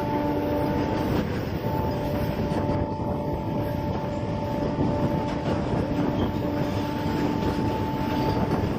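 Electric suburban local train (EMU) running along the track, heard from on board: a continuous rumble of wheels on rails with a steady whine held on a few pitches.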